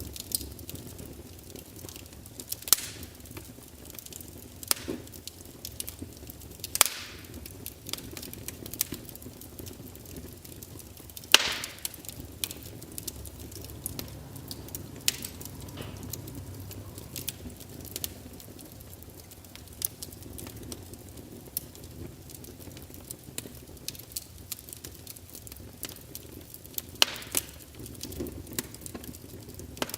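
Wood fire of burning logs crackling steadily under a low rumble, with irregular sharp pops, a few loud snaps standing out.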